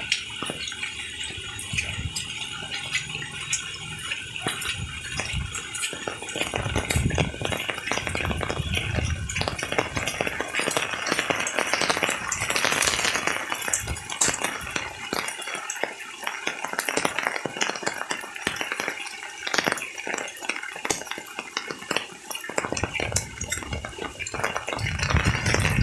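Rain falling, a dense, uneven patter of many small drops over a steady hiss.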